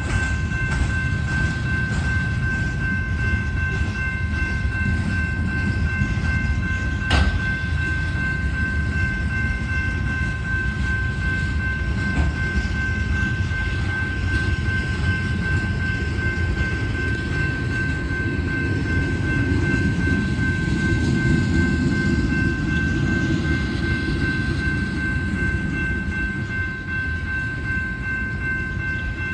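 Freight train of coal cars rolling past with a steady low rumble, wheels clicking over the rail joints, and one sharper clack about seven seconds in. A steady high-pitched whine runs over it.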